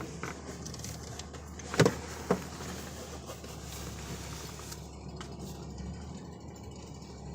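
Car engine idling with a low steady hum. A sharp click comes about two seconds in, and a softer one just after.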